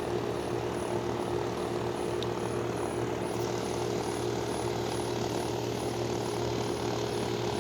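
Lennox air conditioner condensing unit running steadily: the compressor's hum with the condenser fan's rushing air, no change in speed.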